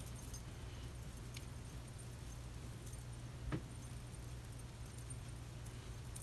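Faint handling noises of hair being set on perm rods: a few light clicks and rustles, one knock about halfway through, over a steady low hum.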